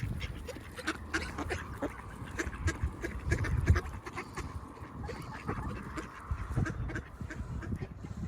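A flock of ducks quacking, many short calls in quick succession, over a low rumble.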